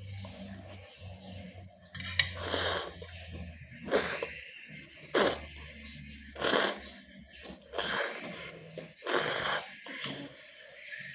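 A person slurping Indomie instant noodles in about seven short, noisy slurps, roughly one every second or so.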